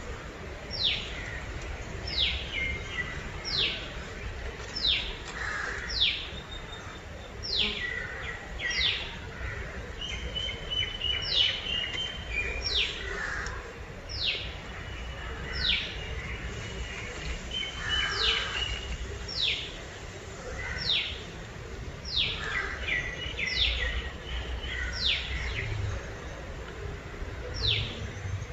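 Birds calling: a long series of short, sharp notes, each dropping steeply in pitch, repeated about once a second, with a few brief level notes between them over a low background rumble.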